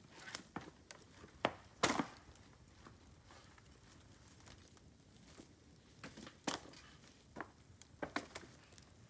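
Bamboo burning on a bonfire, crackling with sharp, irregular snaps and pops. The loudest crack comes about two seconds in, and a cluster of snaps follows near the end.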